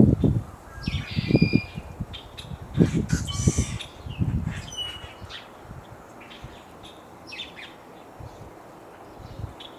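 Wind gusting and buffeting the microphone for the first four seconds or so, with wild birds chirping and calling in short, high notes throughout.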